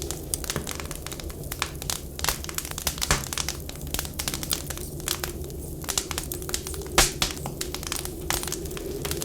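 Wood fire crackling, with many small irregular pops and a sharper crack about seven seconds in, over a steady low howl of blizzard wind.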